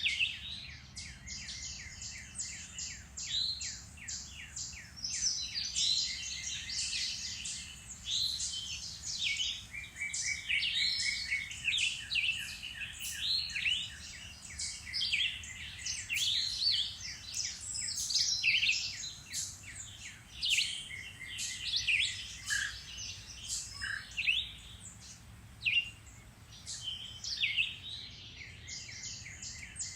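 Several songbirds singing and calling at once in a woodland spring chorus: overlapping chirps, whistled phrases and rapid trills, with no let-up.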